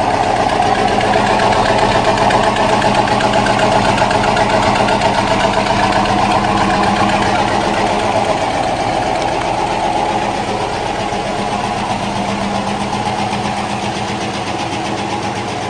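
GAZ-24-34 Volga's V8 engine idling steadily, growing slightly quieter over the last few seconds.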